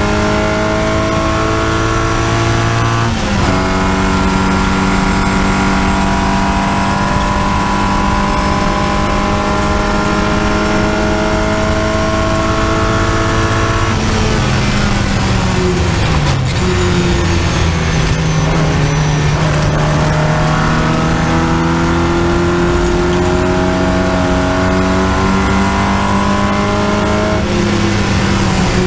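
Triumph Spitfire race car's four-cylinder engine heard from the open cockpit, pulling hard at high revs with its pitch climbing slowly; an upshift drops the revs about three seconds in. About halfway through the revs fall away as it brakes and downshifts for a corner, then climb steadily again until easing off near the end.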